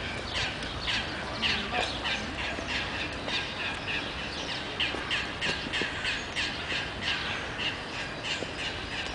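Birds calling over and over: short, falling chirps repeated about three times a second.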